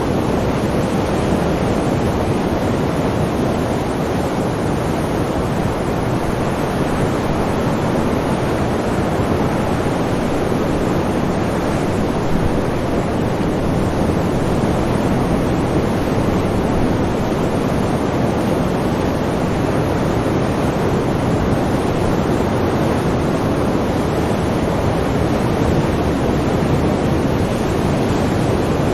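Sea surf: a steady, unbroken rushing of waves with no separate breakers standing out.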